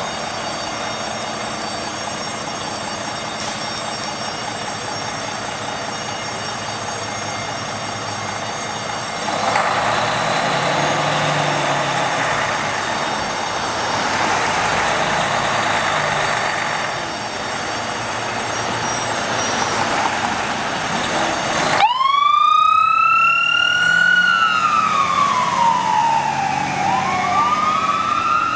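A fire engine's siren wails over a steady rumble of engine and road noise. It starts abruptly about three-quarters of the way through, sweeping up in pitch, falling, then rising again.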